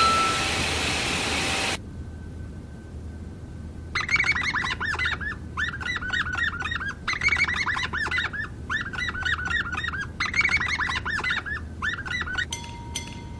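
A steady hiss cuts off abruptly about two seconds in. Then birds chirp in repeated runs of quick tweets, and bell-like chime tones follow near the end.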